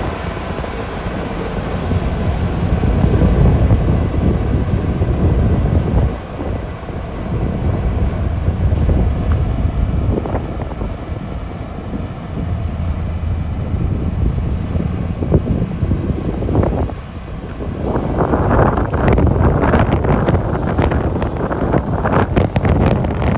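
Komatsu D41P crawler bulldozer's diesel engine running under load, with wind buffeting the microphone. The engine dips briefly twice, and dense clattering and scraping of tracks and gravel fills the last few seconds.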